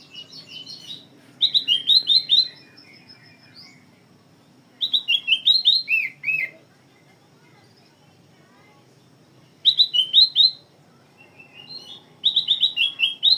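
A caged kutilang emas, a bulbul, singing in loud bursts of quick, sweet whistled notes that swoop up and down. There are four such bursts, each one to two seconds long, with softer twittering phrases between them. Its song is filled in with phrases learned from an oriental magpie-robin.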